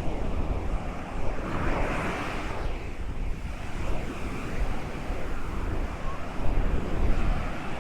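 Ocean waves breaking and washing along a beach, with gusts of wind rumbling on the microphone. The surf hiss swells about two seconds in and again near the end.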